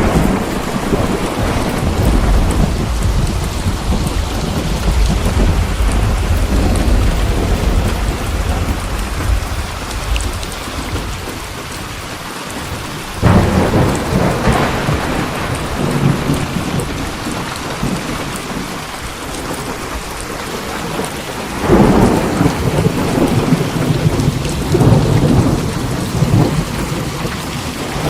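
Steady rain with rolling thunder: a low rumble through the first third, then two sudden thunderclaps, about halfway through and about three-quarters through, each trailing off into a long rumble.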